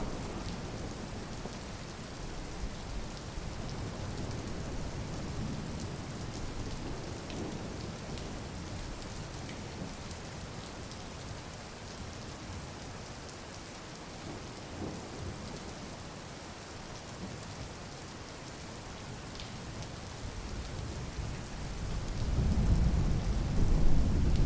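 Steady rain falling, with a low thunder rumble that swells louder near the end.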